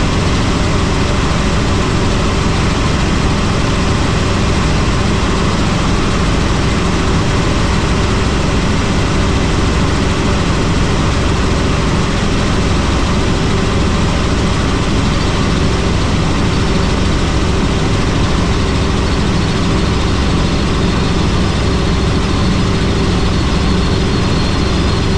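Helicopter in flight: steady, loud drone of the turbine engine and rotor blades, unbroken throughout.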